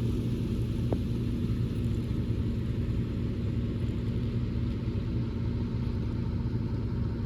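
Steady low mechanical rumble, with one faint click about a second in.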